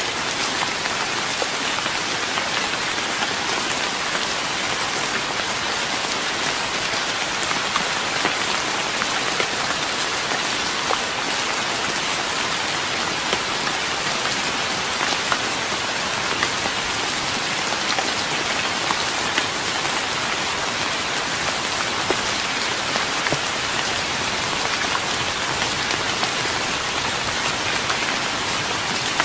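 Steady rain falling on a wooden deck: a dense, even hiss of rain with many individual drop taps scattered through it.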